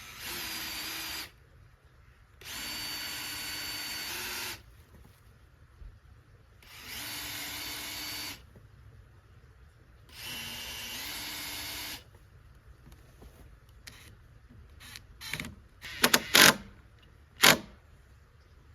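Power drill running in four short bursts of a second or two each at a steady pitch, as holes are drilled or screws driven into the shed's wooden frame. Near the end, several sharp knocks and clicks.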